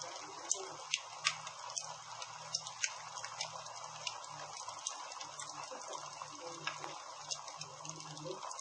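Campfire crackling: a steady hiss with irregular sharp pops and snaps, a few louder ones scattered through.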